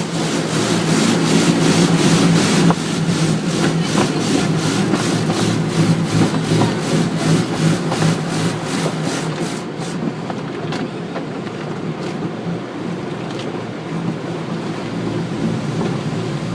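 Automatic car wash machinery running, with a steady motor hum and a regular slapping of brushes about two to three times a second. The slapping stops about ten seconds in, leaving a softer rush of spray and machinery.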